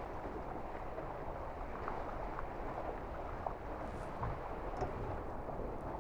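Steady rushing of water along the hulls of a Tornado racing catamaran under sail, with a few faint taps.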